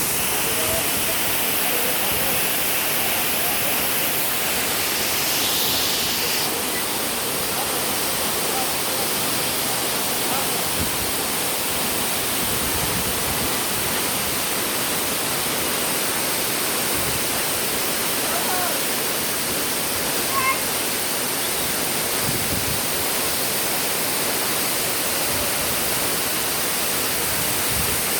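Cubugón waterfall: a steady rush of falling water, with faint voices now and then underneath.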